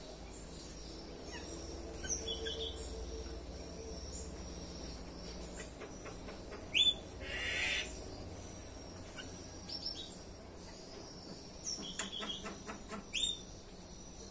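Small birds chirping with short, sharp calls scattered throughout. There is one loud call about seven seconds in, followed by a brief rush of noise, and a cluster of quick chirps near the end.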